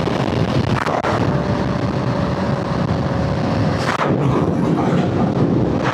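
Heavy wind rush buffeting the microphone while a sportbike rides at speed, with a steady engine tone underneath.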